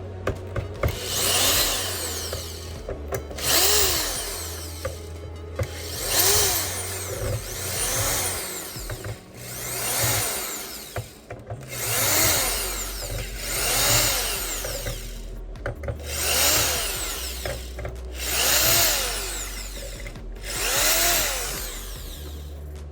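Electric screwdriver whirring in short runs, about ten in a row, each run rising and then falling in pitch as the motor spins up and winds down, backing out screws one after another.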